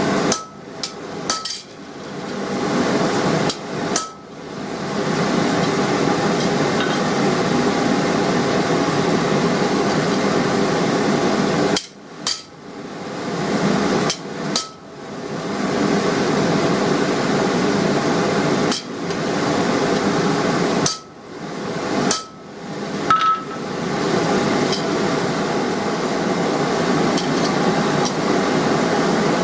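Hammer blows on steel at the anvil, about a dozen sharp strikes at irregular intervals, some with a brief metallic ring, as a hole is punched in the end of a steel bar. A steady rushing noise runs underneath throughout.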